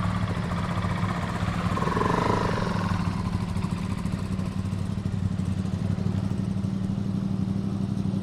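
Motorcycle engine idling steadily with an even low drone, and a brief swell of engine sound about two seconds in.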